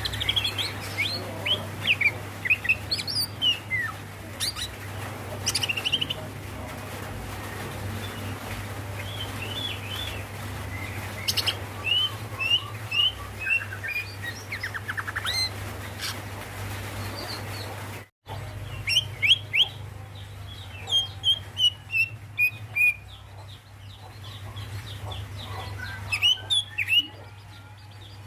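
Female leafbird (cucak ijo) calling: runs of short, sharp chirps and quick whistled notes, its call to draw a male. A steady low hum runs underneath, with a brief dropout about two-thirds of the way through.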